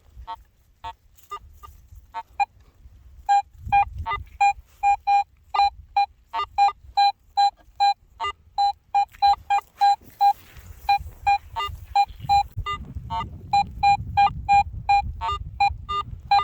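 Metal detector giving a run of short, same-pitched beeps, about three a second, over a buried target it has picked up: a strong, good-sounding signal. A low rumble comes and goes underneath.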